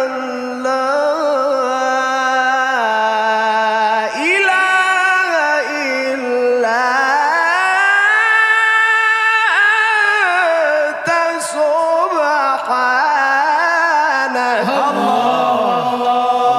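A solo voice chanting a slow, ornamented melodic line with long held notes that glide between pitches.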